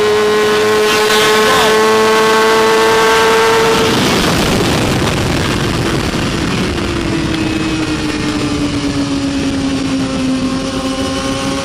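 BMW S1000RR inline-four superbike engine heard on board at race speed. It holds a steady high note for about four seconds, then the throttle closes and the note breaks up into a rough rasp. A lower note then returns, sags slowly and starts to rise again near the end as the throttle opens.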